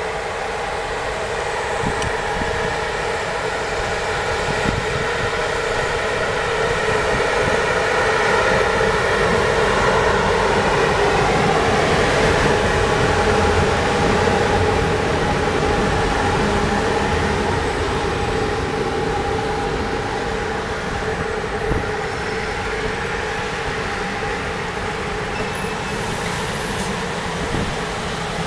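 A train passing by: a steady hum of several tones over a rumble, growing louder towards the middle, bending slightly in pitch as it goes by, then easing off.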